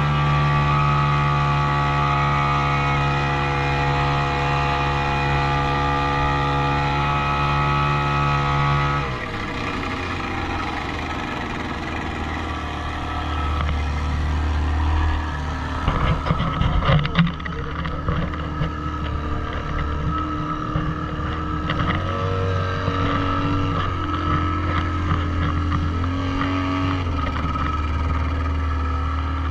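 Motorboat engine running: steady for the first nine seconds, then dropping in pitch and changing speed in steps, with a burst of splashing or wind noise around the middle.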